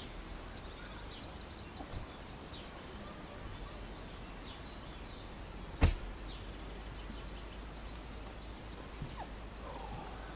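Small birds chirping in quick, high, short notes, most densely in the first few seconds, over a low steady rumble. A single sharp click about six seconds in is the loudest sound.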